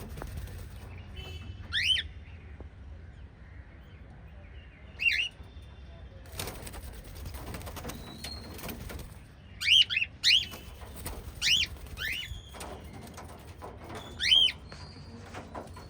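Pet cockatiels chirping: about seven short, loud sweeping chirps, several coming close together in the second half, over a low steady hum and soft rustling.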